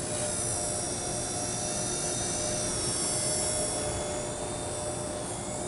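Blade mCP X micro RC helicopter in flight: its small electric motors and rotors make a steady high whine that wavers slightly in pitch.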